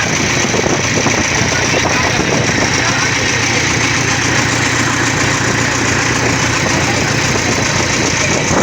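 A boat's engine running steadily, heard from on board, with an even hiss over it.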